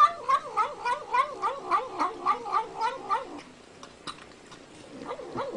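A cat yowling in a wavering, warbling call that pulses about three to four times a second for roughly three and a half seconds, then dies away.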